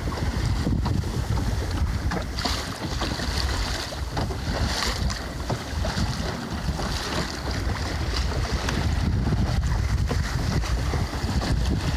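Wind buffeting the microphone in a low rumble, over water rushing and splashing along the hull of a small sailboat under way, with brighter splashes about two and a half and five seconds in.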